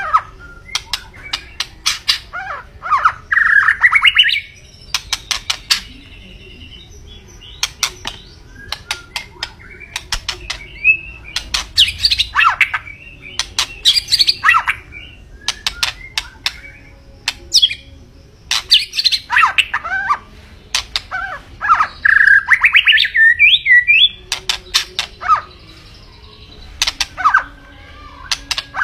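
White-rumped shama (murai batu) singing in phrases. Rapid runs of sharp clicking notes alternate with warbled whistles, with short pauses between phrases.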